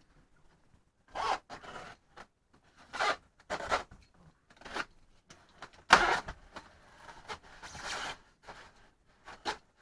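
Packaging being cut and pulled off a foam RC model: a series of short rasping rips and scrapes, the loudest about six seconds in.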